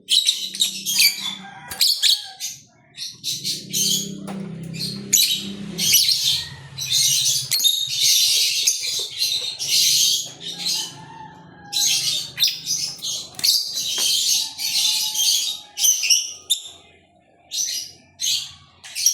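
Small birds chirping and chattering in quick high bursts, almost without pause, with a few short gaps. A fainter low rumble lies under the calls for a few seconds early on.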